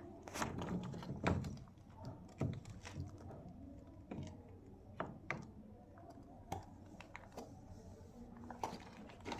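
Irregular light knocks and clicks, roughly one every second or so, over a low room hum.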